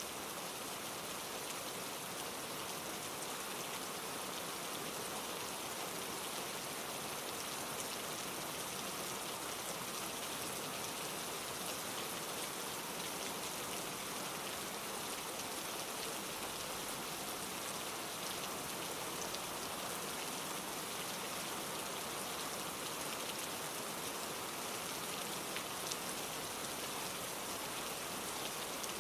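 Steady, even rain pattering on leaves, with scattered single drops ticking through the hiss.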